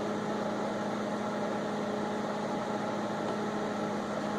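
Microwave oven running partway through a 20-second heating cycle, giving a steady hum with a low drone and fan noise.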